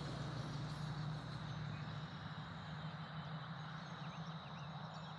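Steady outdoor background noise with a constant low hum, and a few faint bird chirps a few seconds in.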